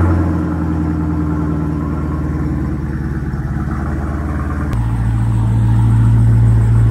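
Dodge Durango's engine idling steadily, with an abrupt step to a slightly higher, louder tone about five seconds in.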